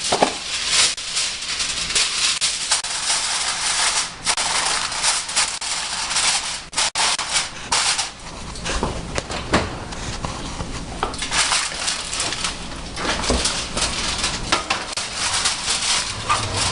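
Aluminium foil crinkling and being crimped over a baking dish, a dense crackle that thins after about eight seconds into scattered crinkles and light knocks.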